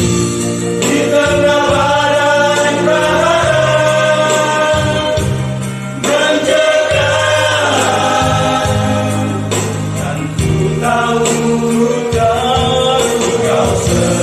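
Church vocal group singing a gospel song in several-part harmony, with held low notes underneath.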